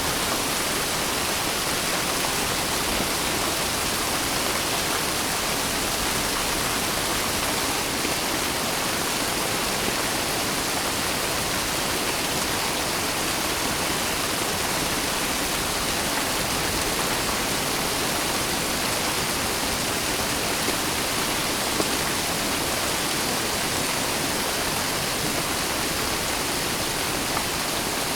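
Steady, even rain: a continuous hiss of falling rain with no breaks or thunder, and a few faint drop ticks.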